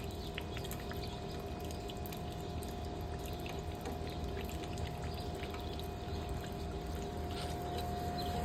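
Rain falling with water running and pouring steadily, and scattered small drip ticks.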